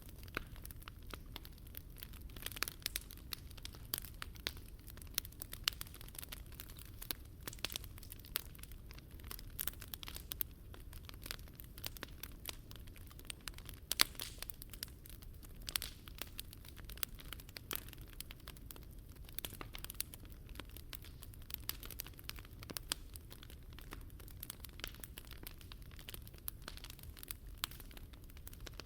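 Wood fire crackling and popping steadily, many sharp snaps close together, over a steady low rumble.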